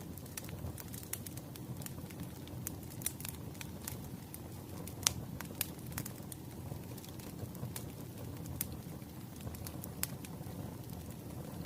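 Wood fire burning in a fireplace: a steady low rumble of flames with irregular sharp crackles and pops of the burning logs, the loudest pop about five seconds in.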